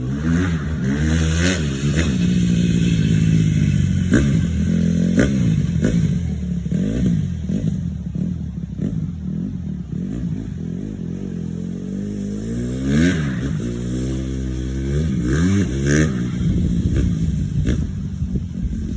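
Dirt bike engine running and revving up and down over and over, its pitch rising and falling, with a few sharp clicks along the way.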